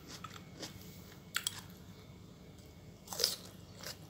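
Crisp, white-fleshed Korean oriental melon (chamoe) being bitten and chewed close to the microphone: a few sharp crunches, the loudest about three seconds in.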